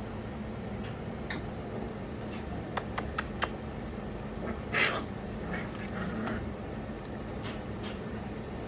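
Miniature Bordoodle puppies at play: a few light clicks, then a short puppy squeak about five seconds in and a fainter one after it, over a steady low hum.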